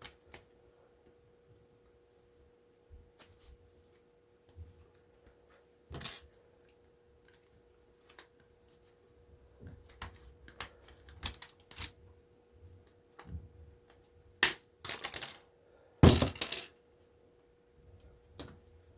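Hand-working of scrap copper wire: irregular clicks, clinks and snips as the wire is pulled out and cut into short lengths, with a cluster of louder knocks about three-quarters of the way through. A faint steady hum sits underneath.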